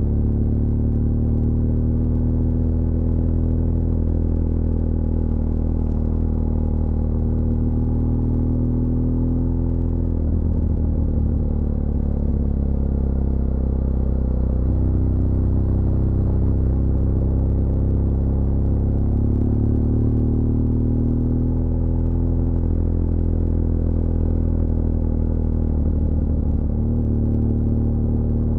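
BMW R1200GS LC Adventure's 1170 cc boxer twin running under way, a steady low rumble whose note shifts in pitch several times.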